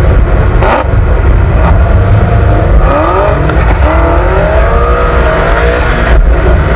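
BMW M3's V8 engine accelerating hard as the car drives off, loud and steady, with its pitch climbing through the revs about halfway through.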